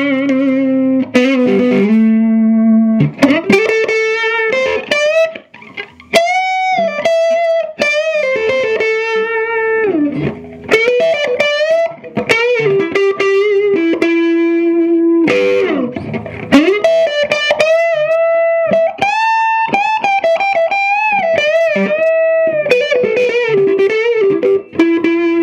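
Stratocaster on its neck pickup through a 15-watt, cathode-biased EL84 valve amp (Earthquake Engineering Atlas15), overdriven on the normal channel. It plays a lead line of held notes with string bends and vibrato, with a round, brown, throaty crunch.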